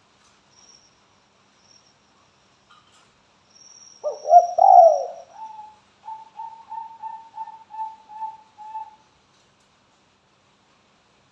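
A spotted dove cooing: two loud coos about four seconds in, then a run of about eight short, even coos at about three a second that stops about nine seconds in. A faint, high, thin trill sounds in the first half.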